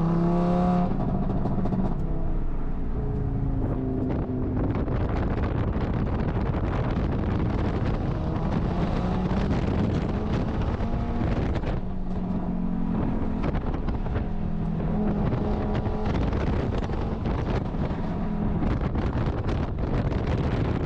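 Audi RS3 race car's engine running through warm-up laps, its pitch rising and falling several times with the throttle and gear changes, over heavy wind and road noise.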